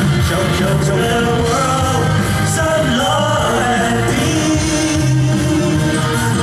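A song performed live over loudspeakers: voices singing a melody over backing music, with no break.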